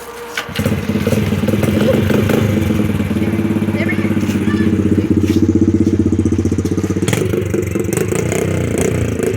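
Small dirt bike engine starting about half a second in and then running steadily at a constant pitch.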